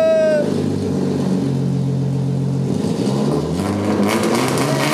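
BMW E36's straight-six engine running just after it fired up, the revs shifting up and down a little. A drawn-out shout ends just after the start.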